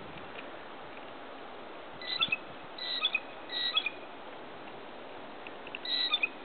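A bird chirping: five short clusters of high, thin chirps over a steady faint hiss.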